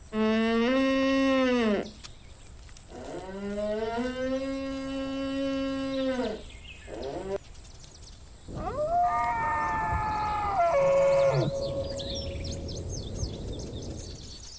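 Moose calling: three long drawn-out calls, the third higher in pitch and dropping at its end.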